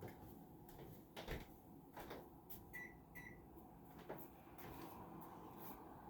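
Faint kitchen clatter: scattered soft knocks and clicks, like cupboards, drawers and utensils being handled. Two short high beeps come just before the middle.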